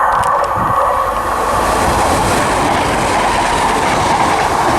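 A Class 175 diesel multiple unit passing through the station at speed: a loud, steady rush of wheels on rail and running gear.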